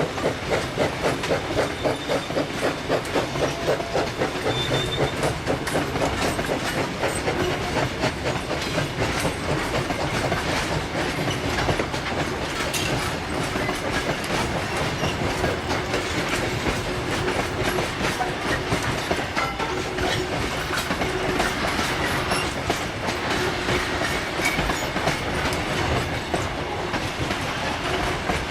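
Steam-hauled train of a QR BB18¼ class locomotive running along the track, with a fast regular beat over the first several seconds that gives way to a more even, steady running noise.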